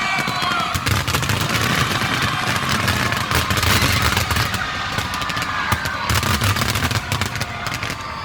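Fireworks going off in a rapid barrage of bangs and crackles.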